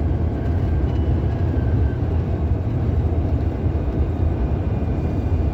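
Steady low rumble of road and engine noise inside the cabin of a moving police patrol car.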